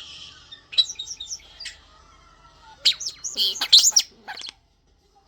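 Pet starling singing: a hiss, then quick sharp chirps and whistles, and after a short pause a louder run of chirps, whistles and clicks that stops about four and a half seconds in.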